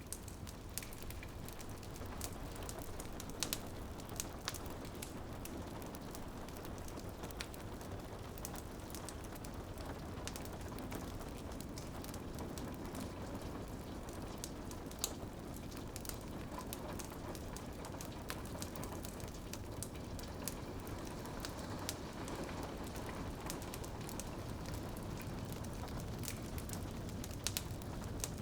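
Steady rain on a window with a wood fire crackling, its sharp pops coming often and at random, a few louder than the rest.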